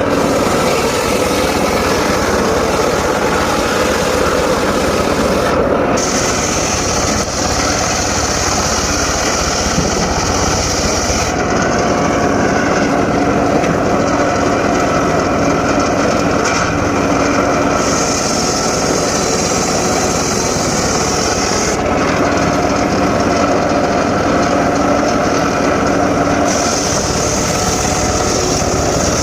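Homemade circular saw running continuously while sawing mahogany, a steady machine drone with a higher hiss that comes in and drops out in stretches of several seconds.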